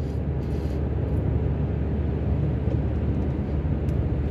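Steady low rumble of a car driving at road speed: engine and tyre noise.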